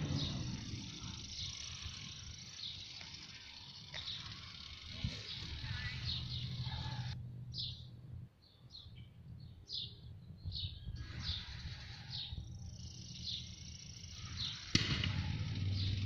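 A small songbird chirping over and over, a steady series of short high chirps, over faint outdoor background noise.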